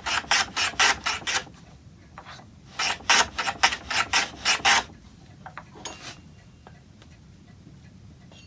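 Quick back-and-forth strokes of a hand tool cutting into oak, about four a second, in two runs separated by a short pause, then a few faint clicks.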